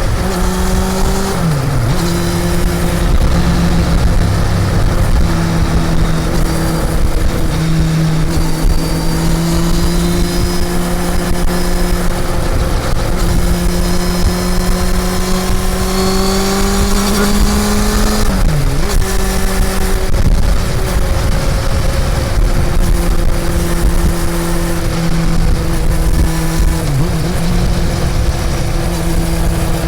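Honda CB400 Super Four's inline-four engine running under way, its note climbing slowly and dipping sharply and briefly three times.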